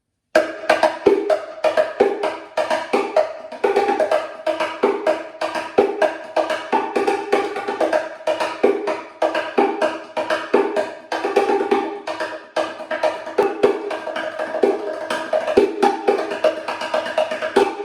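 Wooden Cruz bongo cajon played with the hands: a steady groove of quick strikes moving between its two tones, one higher and one lower, stopping just before the end.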